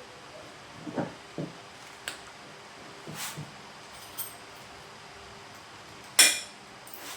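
Scattered metallic clinks and knocks of hand tools against the motorcycle's engine and frame during engine removal, with a sharp, ringing metal clank about six seconds in as the loudest.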